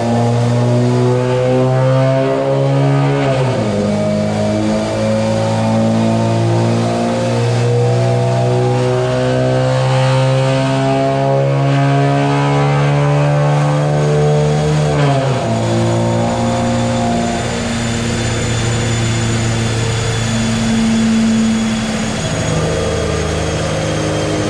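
Infiniti Q60 3.0t's twin-turbo V6, with aftermarket exhaust and tune on stock turbos, pulling under load on a dyno, its pitch climbing steadily. The revs drop sharply about 3 seconds in and again about 15 seconds in, then the engine runs lower and steadier near the end.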